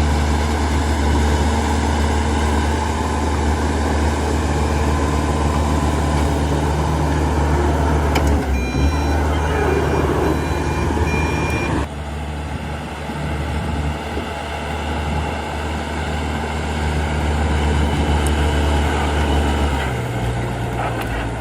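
Heavy diesel engine running steadily. A reversing alarm beeps for a few seconds near the middle. About twelve seconds in, the engine sound drops abruptly and changes character.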